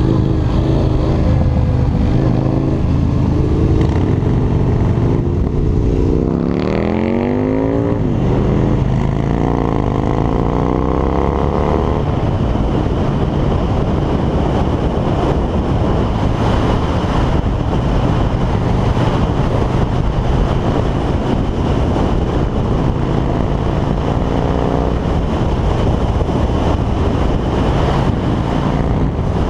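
Harley-Davidson V-twin motorcycle engine on the move, accelerating twice with rising pitch about six to twelve seconds in, then cruising at speed with rushing wind noise over the engine.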